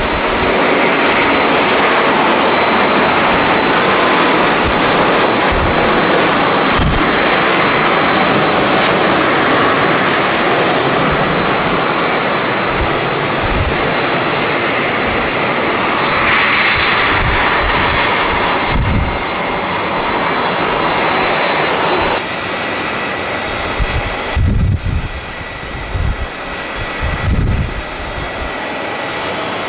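Jet airliner engines, loud, with a steady high whine over the noise, easing off a little about 22 seconds in. Strong wind buffets the microphone in gusts near the end.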